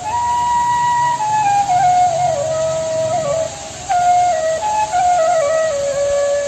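Background music: a solo flute melody of held notes stepping up and down.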